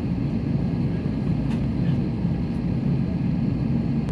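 Steady low hum inside an Airbus A320neo cabin while the airliner waits on the ground before takeoff, with a few faint clicks.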